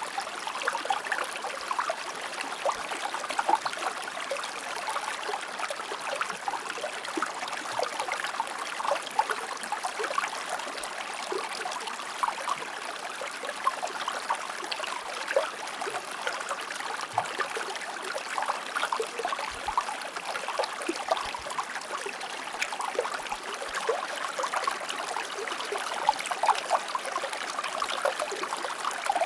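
Stream water flowing and trickling over rocks: a steady rush dotted with small splashes and gurgles.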